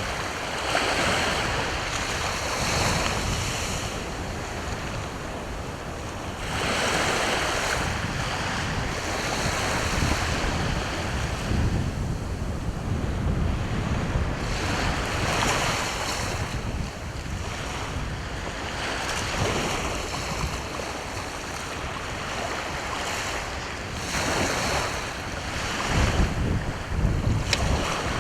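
Sea waves breaking and washing up the shore, swelling and falling back every few seconds, with wind rumbling on the microphone.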